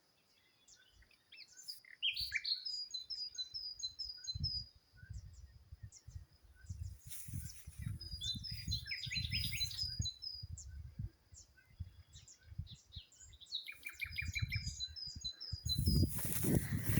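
A small songbird singing: several phrases of quick, repeated high chirps. A low rumble runs under the song from about four seconds in and again near the end.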